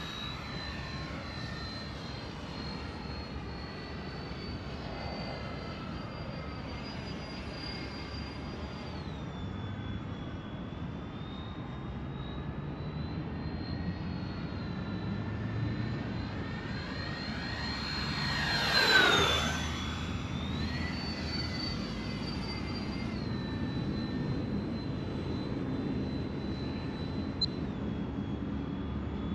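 Freewing A-10 RC jet's twin 80 mm electric ducted fans whining steadily in flight, the pitch stepping up and down several times with the throttle. About two-thirds of the way through it makes a close pass, swelling louder and dropping in pitch as it goes by.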